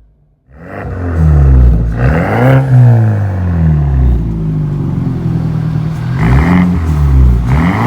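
Exhaust of a 2013 BMW X1's turbocharged engine through a Street Demon cat-back performance muffler with a staggered dual stainless tip. The engine is revved, coming in suddenly about half a second in. Its pitch climbs and drops back three times, the biggest rev about two and a half seconds in.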